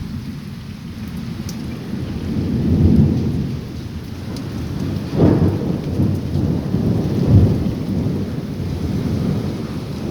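Rain with low rolling rumbles of thunder that swell and fade several times.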